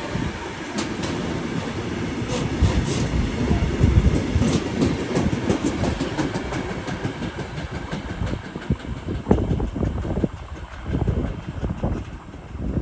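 Train passing on the tracks, its wheels clicking rapidly over the rail joints over a heavy rumble, the sound thinning out and growing quieter in the last few seconds.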